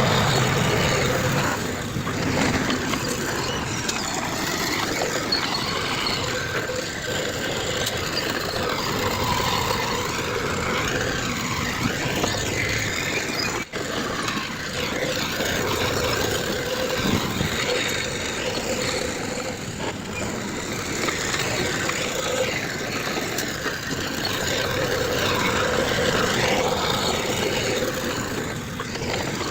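Heavy earthmoving machinery running steadily, with a momentary break about halfway through.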